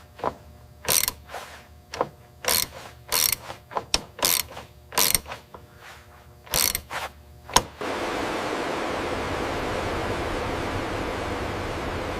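A heavy mechanism working in short, irregular clanks and ratcheting strokes, about a dozen in all, ending in one sharp click. Then a steady even hiss begins and runs on unchanged.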